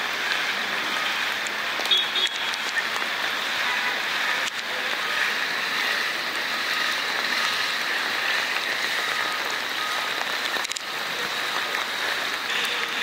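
Heavy rain falling steadily onto a flooded street, a continuous hiss of rain on standing water, with one brief sharp knock about two seconds in.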